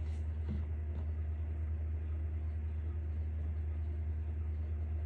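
Vehicle engine idling, a steady low rumble with no change in speed.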